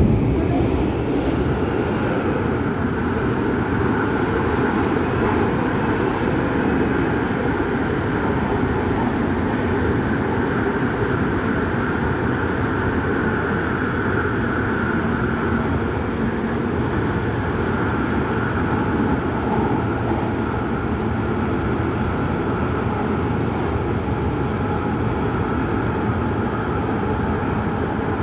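MTR Tung Chung Line CAF-built train running at steady speed, heard inside the cabin: a continuous running noise with a faint steady whine above it.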